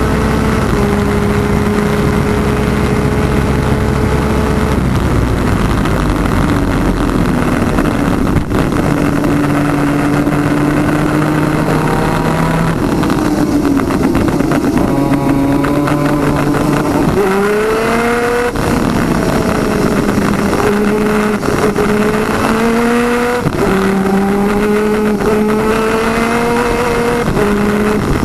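Twin-cylinder 250cc two-stroke superkart engine at racing speed, its note holding steady, then dropping and climbing again as the throttle and gears change, with a sharp rise about seventeen seconds in.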